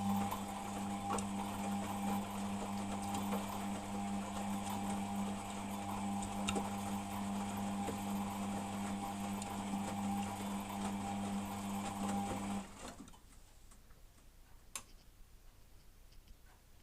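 Beko WMP 601 W washing machine running with a steady hum, which cuts off about three quarters of the way through, leaving faint clicks. The owner hears a slight grinding from this machine when the drum turns, though not on spin.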